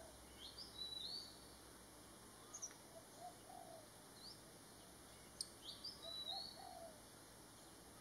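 Faint background birds calling: short high chirps, clustered about half a second in and again around six seconds, with single high notes and soft lower calls now and then.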